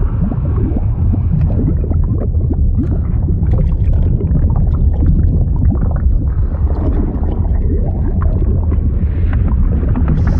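Liquid sound effect of water bubbling and gurgling over a deep, steady rumble, with many short rising bubble sounds.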